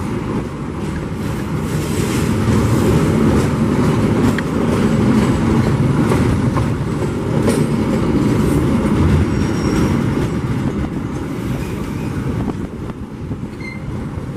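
Passenger train coaches rolling slowly past on the rails as the train comes into the station to stop, the wheel-and-rail rumble swelling through the middle and easing off near the end.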